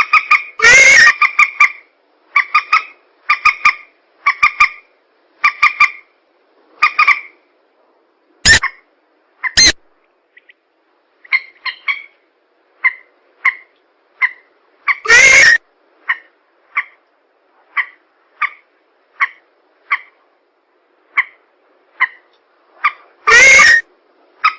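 A recorded lure call of swamp birds, a mix of mandar (rail) and pelan calls. Short two-toned notes repeat about once a second, then faster near the middle. A few very loud, harsh, distorted calls break in, about a second in, twice around eight to ten seconds, near the middle and near the end.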